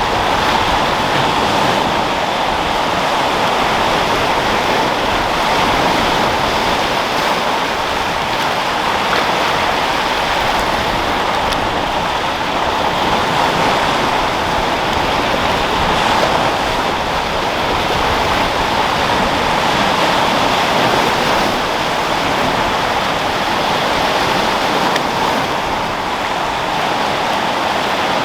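Sea waves rolling in and breaking as white, foamy surf, with wind. It is a steady rushing that swells and eases gently every few seconds.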